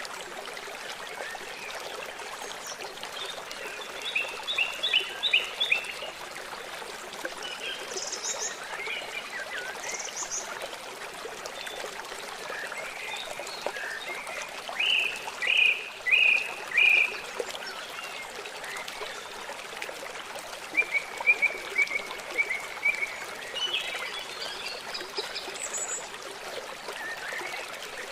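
Running water of a forest stream, steady throughout, with birds calling in short quick series of chirps several times, the clearest about five seconds in, around the middle, and past two-thirds through.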